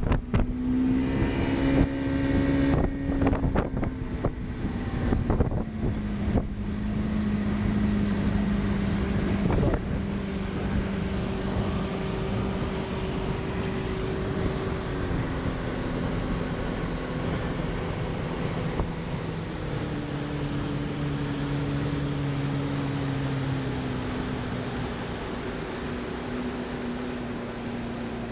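A boat motor running steadily, its pitch stepping up and down a few times as the throttle changes. Wind buffets the microphone in the first several seconds.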